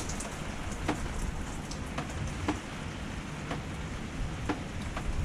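Steady rain pouring down, with scattered louder drops tapping about once a second.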